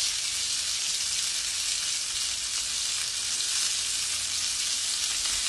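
Potstickers frying in oil on low heat, a steady even sizzle as their bottoms turn golden.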